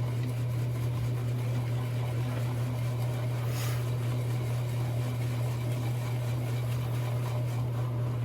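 A shaving brush whipping soap lather, faint swishing and churning under a steady low hum.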